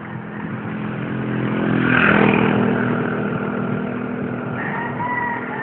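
A motor vehicle engine passes close by, growing louder to a peak about two seconds in and then fading away. A thin high squeal sounds briefly near the end.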